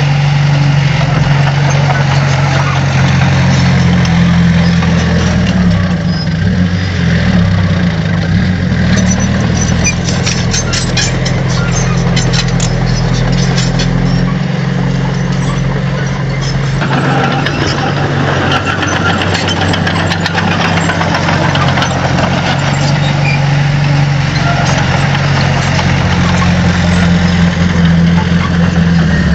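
Diesel engine of heavy earthmoving machinery running steadily, its pitch shifting a little, with a stretch of rapid clicking about a third of the way in.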